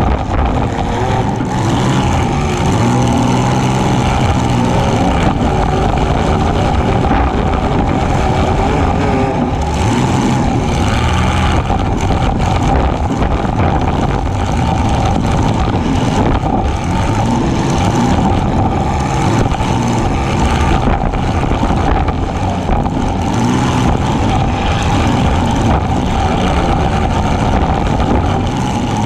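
Compact demolition-derby car's engine running hard, loud and steady, heard from on board the car.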